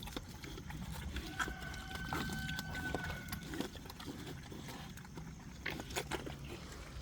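Pigs grunting and snuffling at their feed, with scattered sharp clicks and knocks. A faint steady whistle-like tone comes in about a second and a half in and lasts about two seconds.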